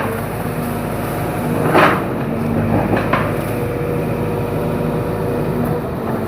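Excavator's diesel engine running steadily, with a short loud crackling burst a little under two seconds in and two sharp knocks about a second later.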